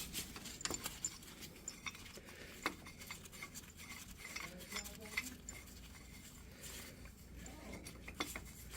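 Scattered light metallic clinks and taps as a U-joint press and hand tools are handled and positioned on an axle shaft.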